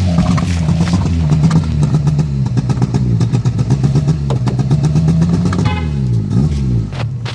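Engine being revved with an exhaust flame kit, the exhaust popping and crackling in rapid bangs over the changing revs. Near the end the revs drop away and rise again.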